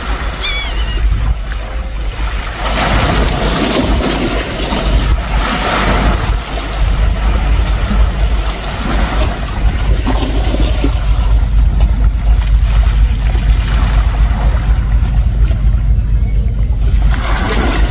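Strong gusty wind rumbling on the microphone, with surf washing ashore in surges. It is the rising weather ahead of an approaching tropical storm.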